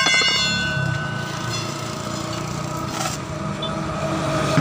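A single sharp metallic clink that rings on for about a second and a half, over a steady low mechanical hum.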